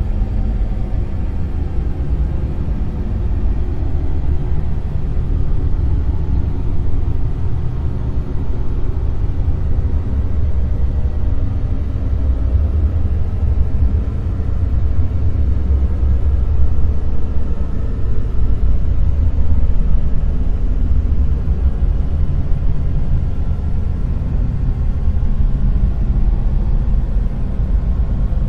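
Dark noise: a steady, deep rumbling hiss with most of its weight in the low bass and little treble, swelling slightly in loudness past the middle.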